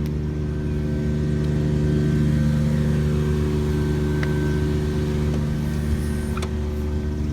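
Minivan engine running steadily at low speed, swelling slightly a couple of seconds in.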